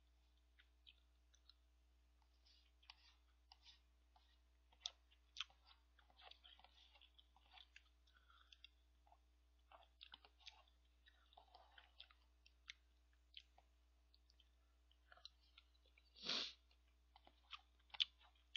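Close-miked eating of cup ramen with rice: chewing and scattered mouth clicks, with one louder half-second noise near the end.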